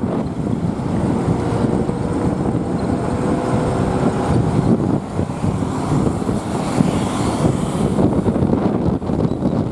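Wind buffeting the microphone on a moving motorbike, with the motorbike's engine running underneath; a faint steady engine tone shows through in the first few seconds.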